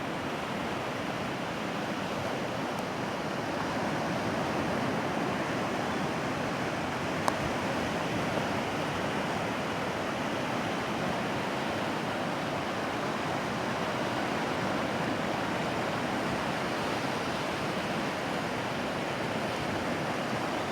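Sea surf washing onto a beach, a steady, even rush of waves, with one brief click about seven seconds in.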